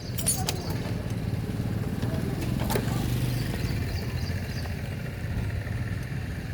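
Motorcycle engine running steadily at a low speed, a little louder about three seconds in, with a couple of sharp metallic clicks.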